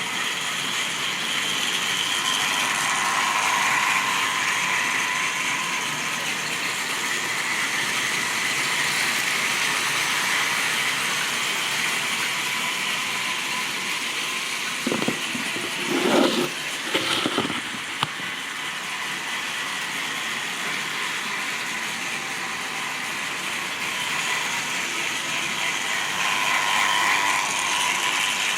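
Model railway train running on the track: a steady whirr of the locomotive's small motor and gears with the rattle of wheels on rail. It grows louder twice, a few seconds in and again near the end, and a short run of sharper clicks and knocks comes just past the middle.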